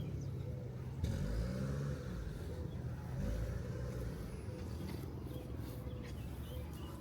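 An engine running with a steady low hum, its pitch shifting briefly about a second in.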